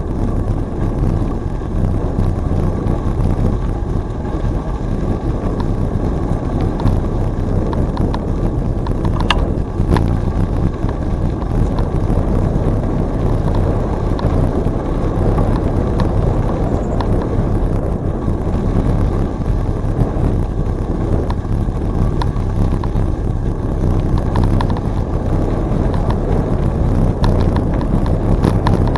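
Wind buffeting the camera's microphone during a bicycle ride on a trail: a steady low rush, with a couple of faint clicks about nine to ten seconds in.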